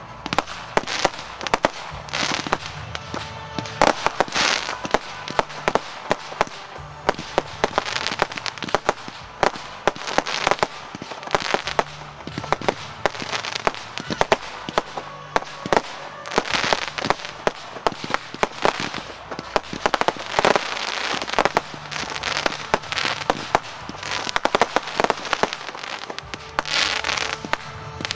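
Aerial fireworks display: shells bursting in quick succession, a dense run of sharp bangs and cracks several a second.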